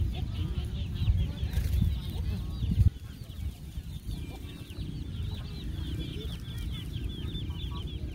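Birds chirping rapidly and continuously, with a low rumble that stops abruptly about three seconds in.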